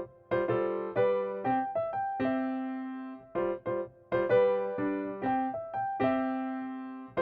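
Background music: a light electric-piano melody, notes struck and decaying in short phrases.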